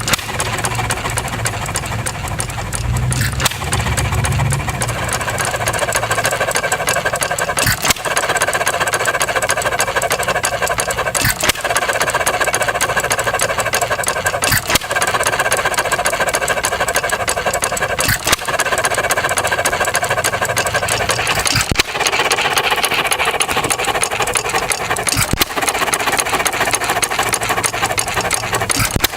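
Antique 1.5 hp Ideal air-cooled hit-and-miss engine running after a cold start, with a steady rapid clatter and a sharp bang about every three and a half seconds as it fires and then coasts on its small flywheels.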